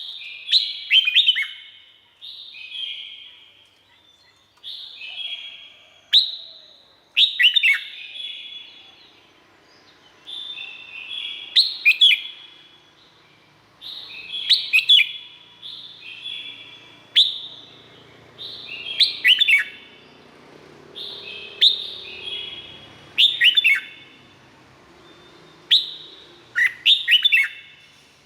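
Red-whiskered bulbul singing: short, clear whistled song phrases repeated about every two seconds, many of them with quick downward-sweeping notes.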